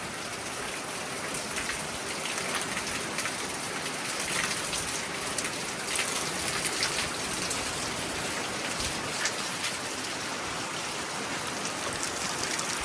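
Heavy rain pouring down in a severe thunderstorm, a steady hiss with the patter of many drops hitting surfaces.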